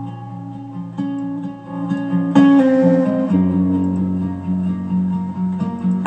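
Acoustic guitar playing an instrumental song intro, plucked and strummed chords that change about once a second and grow fuller a couple of seconds in.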